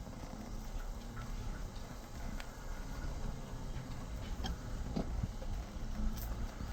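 Walking noise: a steady low rumble with a few scattered light ticks and clicks.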